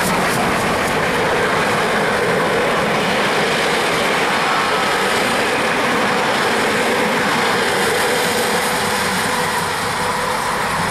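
A steam-hauled passenger train, class 50 locomotive 50 3673 and its coaches, running past at close range: a loud, steady rush of wheels on rails with some clickety-clack.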